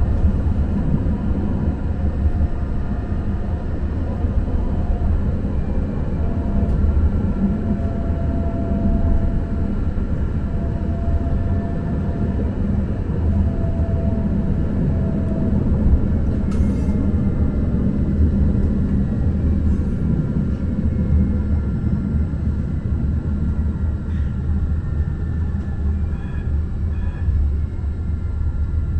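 Muni Metro light-rail car running along the line: a steady low rumble of wheels on rails, with a faint whining tone that comes and goes through the middle.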